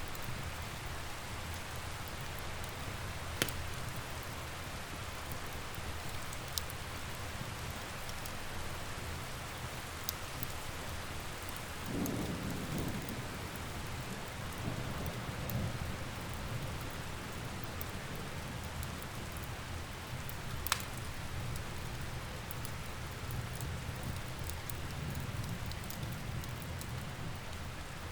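Steady rain with a soft roll of thunder swelling about twelve seconds in and fading away, and a few sharp pops from a crackling wood fire.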